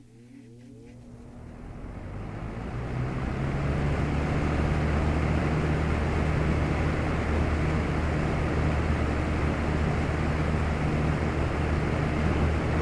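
Vintage Eastern Electric (Lakewood) 20-inch box fan starting up: the whir of the blades rises over about three seconds as the motor comes up to speed, then settles into a steady rush of air over a low motor hum.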